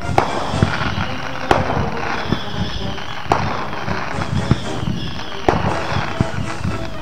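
Fireworks going off over a lake: a sharp bang about once a second over a continuous crackle. They are firing on their own from a barge that has caught fire.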